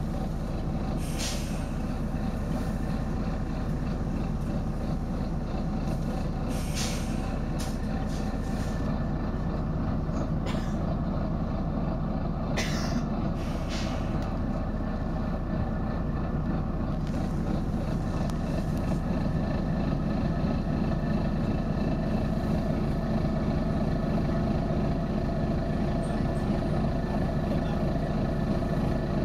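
Volvo B9TL bus's six-cylinder diesel engine running steadily, with about five short hisses of compressed air from the bus's air system in the first half. The engine grows a little louder in the second half.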